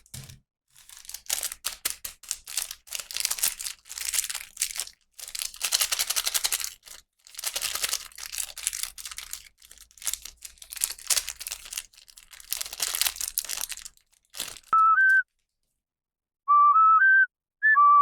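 Plastic packaging crinkling and tearing in repeated bursts as a toy is unboxed. Near the end comes a short, simple tune of pure whistle-like notes, then a brief pause, then the tune again.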